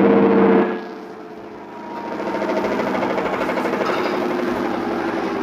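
LG washing machine in its spin cycle: a motor hum with a steady whine that drops away under a second in, then builds back up to a steady run with a fine rapid rattle.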